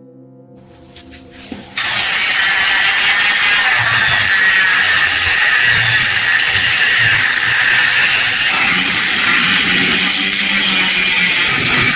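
Loud, steady grinding of a tool against metal, starting suddenly about two seconds in as soft music fades out; the rust crust is being abraded off a brass lamp.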